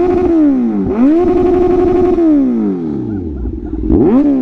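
Four-cylinder sport motorcycle engine revved in repeated throttle blips. The first rev dies away at the start. A second rises about a second in, holds for about a second and falls back. A third quick rev comes near the end.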